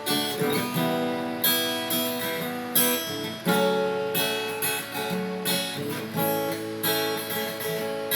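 Instrumental break in a song: an acoustic guitar strumming chords in a steady rhythm, with no singing.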